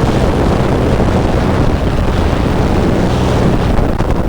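Paramotor engine and propeller running steadily under throttle in flight, with wind rushing over the microphone.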